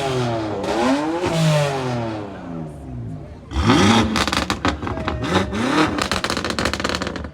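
Loud performance car engines revving hard, the pitch climbing and falling as they pull away and fading about three seconds in. About three and a half seconds in another car revs loudly, with a rapid crackle from its exhaust.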